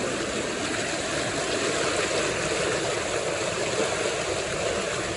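Flooded creek water rushing steadily over and through a concrete bridge.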